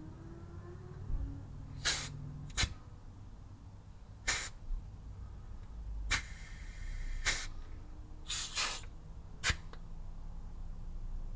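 Pneumatic grease gun firing in short, sharp hisses of air as grease is pumped into a driveshaft grease nipple: about eight quick pulls of the trigger, one of them held for about a second around the middle.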